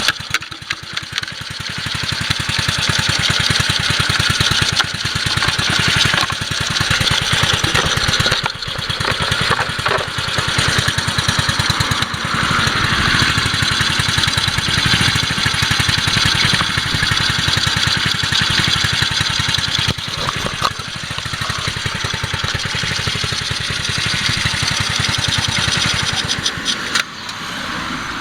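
Honda Super Cub 50's single-cylinder four-stroke engine, a swapped-in 12V C50E unit, running steadily with a regular exhaust beat. The sound falls away near the end.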